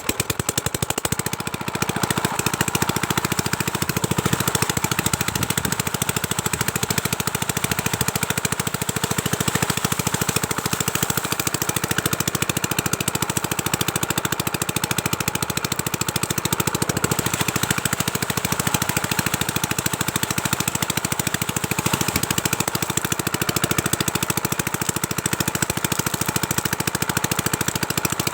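Power tiller's single-cylinder diesel engine running with a rapid, even knock, picking up speed about two seconds in and then running steadily.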